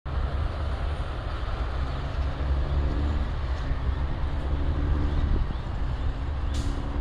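Steady rumble of highway traffic, tyres and engines, with the drone of a truck engine coming and going, and a brief click near the end.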